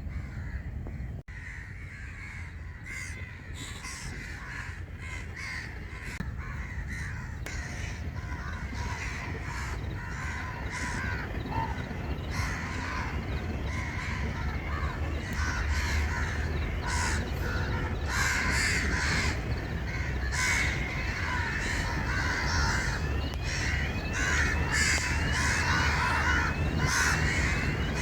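A large flock of birds gathered at feed, calling over one another in a dense, continuous chorus that grows louder and busier toward the end.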